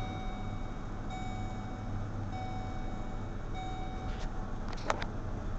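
Chevrolet Express G3500 engine idling steadily in the cab just after start-up, under the dash's warning chime repeating about once a second. The chime stops about four seconds in, and a short click follows near the end.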